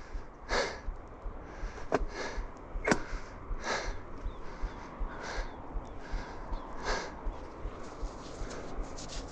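A person breathing hard and sniffing close to the microphone, short puffs of breath about once a second, with a couple of sharp clicks about two and three seconds in.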